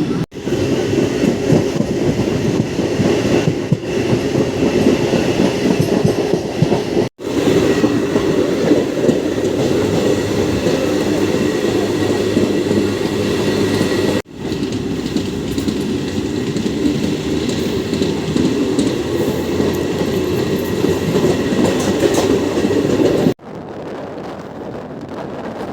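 MEMU electric multiple-unit train running along the line, a steady loud rumble and rattle of wheels on rails. It breaks off abruptly three times and is quieter in the last couple of seconds.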